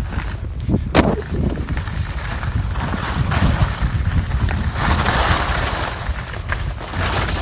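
Wind rumbling on the microphone, with a sharp knock about a second in and a louder hiss through the middle.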